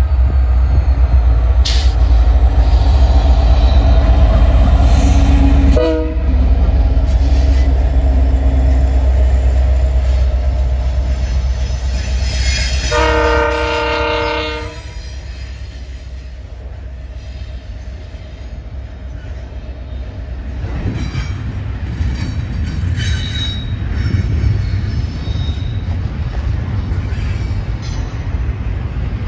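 Two CN diesel freight locomotives passing at about 30 mph, engines running with a strong low drone. About 13 s in, a multi-tone train horn sounds for about a second and a half. After it the double-stack intermodal well cars roll by with steady wheel-on-rail noise and a few brief high wheel squeals.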